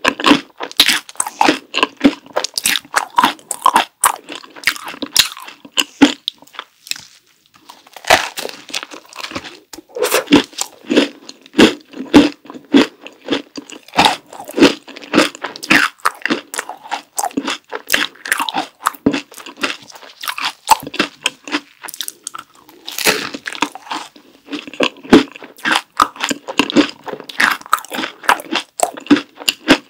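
Close-miked crunching and chewing of a chocolate macaron ice cream sandwich: dense, irregular crisp crunches with a short pause about seven seconds in.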